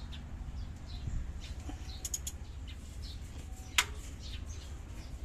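Birds chirping in short scattered calls over a steady low rumble, with one sharp click about four seconds in.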